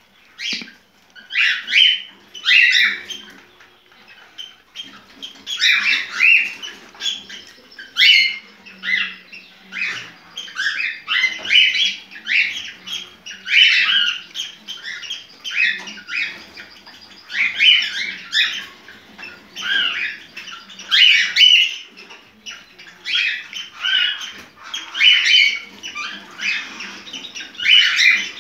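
Cockatiel singing its mating song: runs of quick chirps and whistled warbles with sliding pitch, repeated in phrases with short pauses between them.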